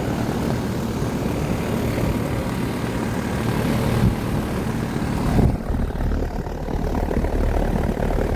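Outdoor condensing unit of a new 1.5-ton Rheem Endeavor Line central air conditioner running: the condenser fan's steady rush of air over the low hum of its Copeland compressor. About five and a half seconds in the airy fan noise drops away while the low hum continues.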